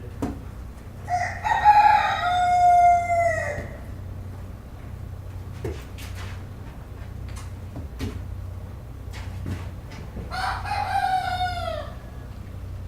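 A rooster crowing twice, each crow a long falling cock-a-doodle-doo, one early and one near the end, over a steady low farmyard hum with a few short knocks between the crows.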